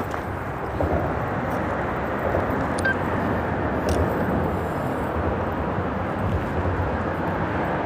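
Steady rumble of freeway traffic crossing the bridge overhead, blended with the rushing water of the stream below.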